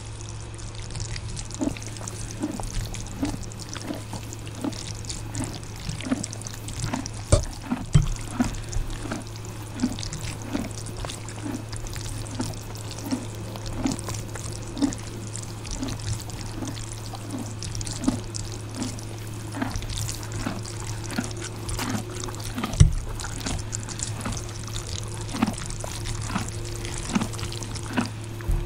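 Close-up eating sounds of ramen noodles: wet chewing at a steady pace of about one and a half chews a second, with metal forks clicking against the bowl as they stir and lift the noodles, over a steady low hum.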